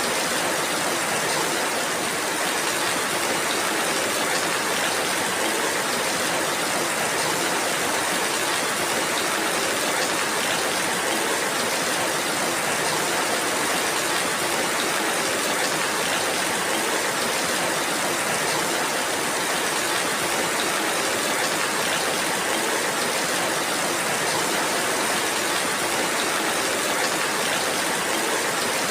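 Steady rainfall: an even hiss that does not change in strength.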